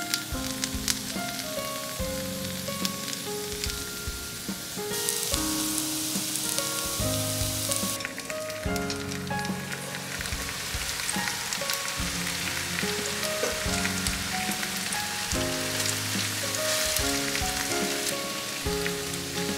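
Food sizzling in a frying pan, the sizzle briefly louder from about five seconds in, under background music.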